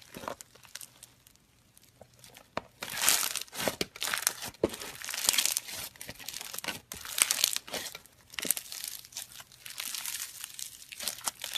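Slime being squeezed and kneaded by hand, giving off irregular crackling, snapping and squishing sounds, with a brief lull about a second in before the crackling picks up again.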